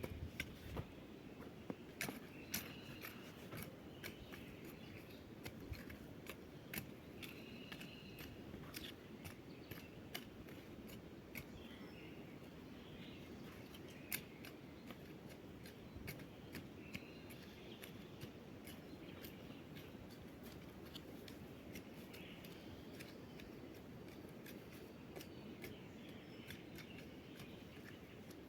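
Scattered sharp clicks and snips from hand tools clearing a patch of ground, over a low steady hiss.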